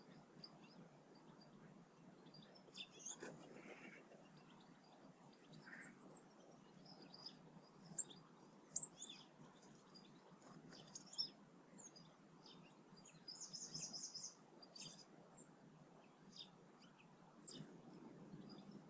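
Small garden birds calling around feeders: scattered short high chirps and tweets, the loudest a couple of sharp notes about nine seconds in, and a quick trill near the middle. Faint steady background noise runs underneath.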